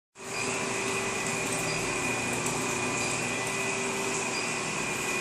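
A machine running steadily: an even hiss with a constant high whine and a lower hum, starting suddenly just after the start.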